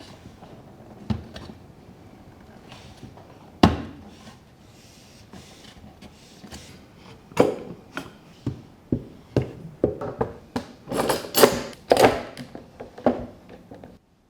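Wooden parts and hand tools knocking and clattering on a workbench as a cedar birdhouse is put together. The knocks are sparse at first, with one sharp knock a few seconds in, then come thicker and faster from about halfway through and ease off near the end.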